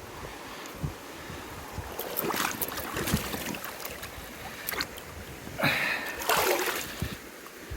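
Water splashing and sloshing in two spells, over the steady rush of a river, with a few low knocks.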